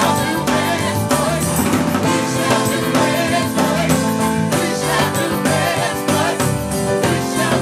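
Live gospel worship music: a band with drums and sustained keyboard chords, and voices singing over it.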